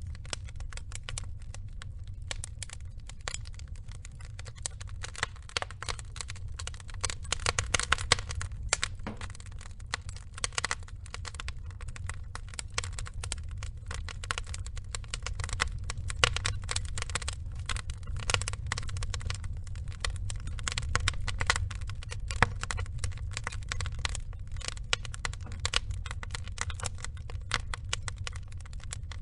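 Wood fire burning: a steady low rumble with dense, irregular crackling and popping of the logs, with busier bursts of crackles around a quarter and halfway through.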